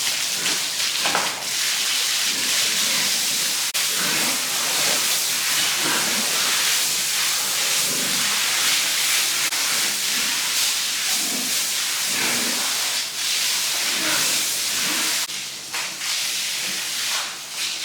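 A steady, loud hiss that eases off near the end.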